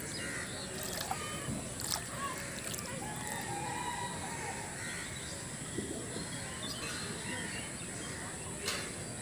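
Outdoor rural ambience: a long bird call about three seconds in, over a steady high hiss, with a few sharp clicks.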